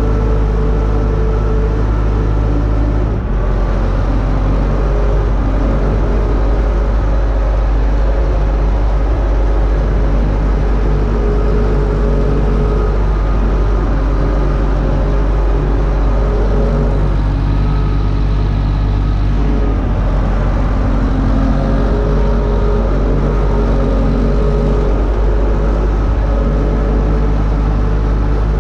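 UTB Universal U650 tractor's four-cylinder diesel engine running steadily under load, pulling a disc harrow.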